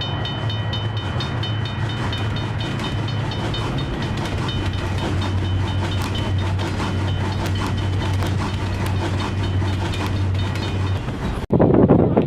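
Diesel-hauled passenger train passing at speed: a steady low engine hum with rapid, evenly spaced clicking of wheels over rail joints. Near the end the sound cuts off abruptly and is replaced by a louder, rougher rushing noise.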